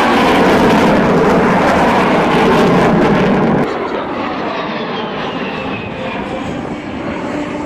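Aircraft engine noise from a fixed-wing aircraft flying past, loud and dense for the first three and a half seconds. It then cuts abruptly to a quieter pass with a whine that slowly falls in pitch.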